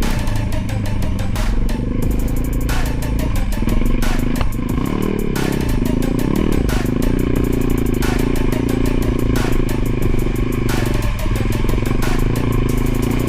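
Enduro motorcycle engine running under way, its pitch wavering up and down about a third of the way in, then holding steady, with frequent clicks and knocks over it.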